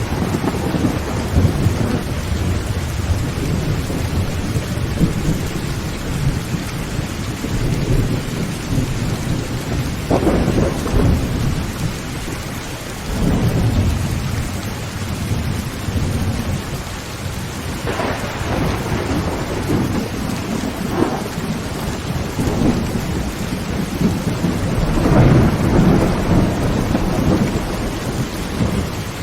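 Heavy rain drumming steadily on a tin tent roof, with rolling thunder swelling and fading several times, strongest around ten seconds in, near eighteen seconds and again near twenty-five seconds.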